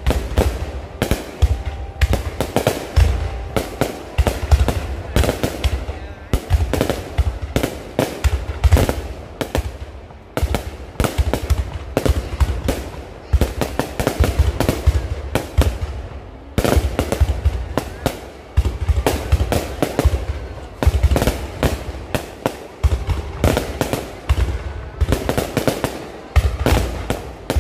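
Low-altitude fireworks going off in a rapid, continuous barrage, several loud bangs and crackles a second, each with a deep low thump.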